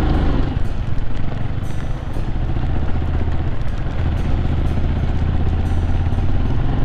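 A small single-cylinder four-stroke trail bike engine running steadily at low revs while riding a rough gravel forest track, under a constant rumble of noise from the ride.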